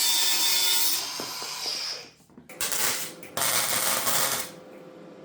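Angle grinder cutting through a steel exhaust bracket, a harsh hissing grind in a few short chopped segments with brief breaks between them.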